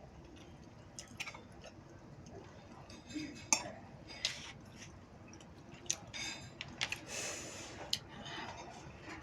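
Scattered light clicks and clinks of utensils against dishes and food containers, with a few brief soft swishes.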